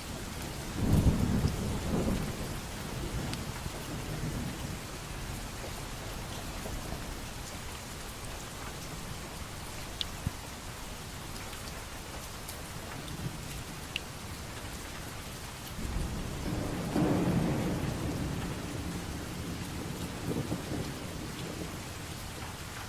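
Steady rain falling, with two low rolls of thunder: one about a second in and a longer one about sixteen seconds in.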